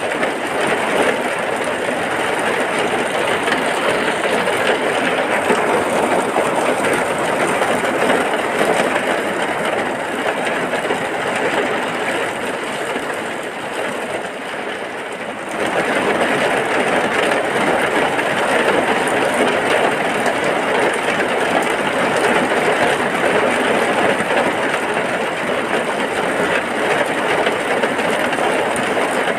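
Heavy rain falling steadily, a dense even hiss. It eases slightly about halfway through and then jumps back to full strength.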